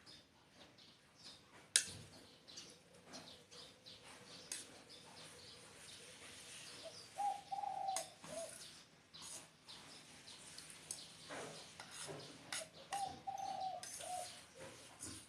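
Spotted dove cooing: two short coo phrases about six seconds apart, each ending on a lower note. Small birds chirp around it, with scattered clicks and one sharp click near the start.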